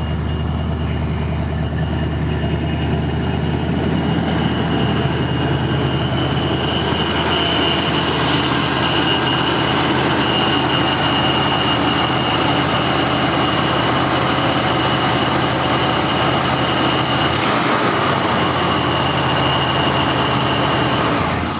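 Pontiac 400 cubic-inch four-barrel V8 running smoothly and steadily, cutting off at the very end. The owner notes a small exhaust leak on the passenger side.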